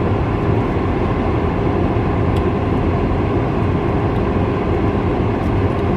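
Steady, loud hum and rush of an air conditioner running, with a constant low hum and a steady tone under it.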